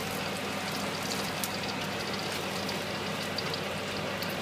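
Prawns sizzling in garlic oil and sauce in a stainless-steel wok over a gas flame, a steady hiss with faint scattered crackles, over a steady low hum.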